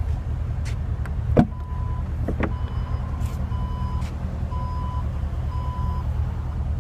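Electronic beeper sounding five times, about once a second, at one steady pitch, over a steady low rumble. A single sharp knock comes just before the first beep.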